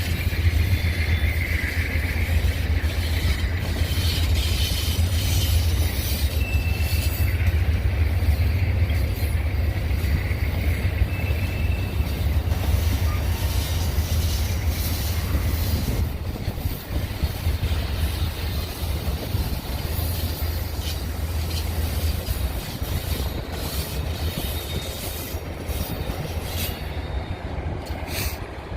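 Amtrak passenger train rolling past as it slows into the station, its wheels clicking over the rail joints with brief high squeals. A heavy low rumble fades out after about twenty seconds as the train runs slower.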